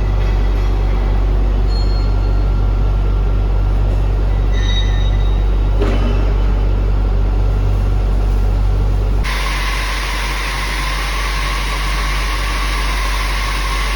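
Heavy industrial machinery running with a steady, loud low hum. About nine seconds in the sound changes abruptly to a brighter, hissing machine rumble.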